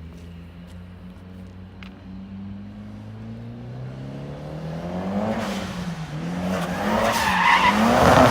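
Drift car's engine getting louder and rising in pitch as it comes on, then revving up and down while the tires squeal through a slide, loudest near the end.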